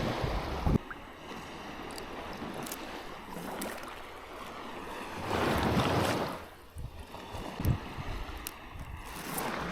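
Water sloshing and splashing around a small fishing boat, with wind on the microphone. A knock comes under a second in, and the noise swells into a louder rush for about a second midway.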